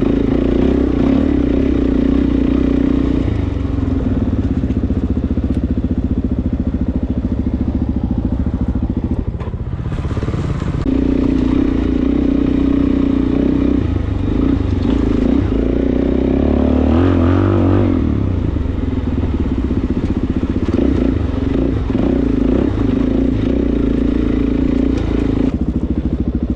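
Suzuki DR-Z400S single-cylinder four-stroke dirt bike engine running steadily under throttle while riding, easing off briefly about ten seconds in before pulling again.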